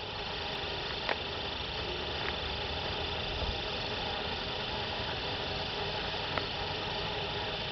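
Distant diesel locomotives of an approaching freight train running, heard as a steady low rumble under a constant hiss, with a few faint clicks.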